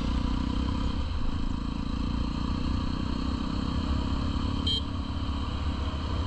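Single-cylinder engine of a 2019 Jawa 42 motorcycle running steadily while riding, with a short high-pitched chirp near the end.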